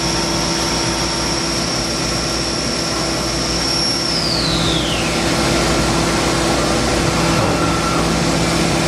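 Haas VF-2SS CNC vertical machining center running, a high steady whine over constant hiss and hum. About four seconds in the whine falls quickly in pitch as the spindle winds down.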